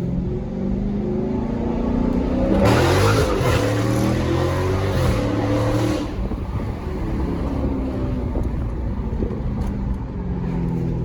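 2018 Dodge Charger Scat Pack's 6.4-litre V8 with a mid-muffler delete, rising in pitch, then accelerating hard with a loud exhaust rush from about two and a half seconds in. After about three seconds it eases off to a steadier, lower run.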